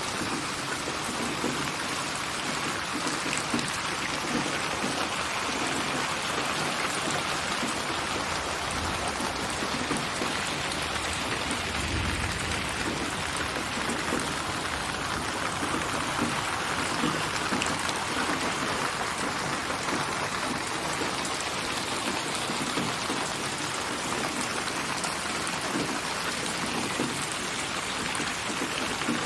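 Steady rain falling on surfaces, a dense even hiss of drops, mixed as a spatial 8D rain soundscape. A brief low rumble comes about halfway through.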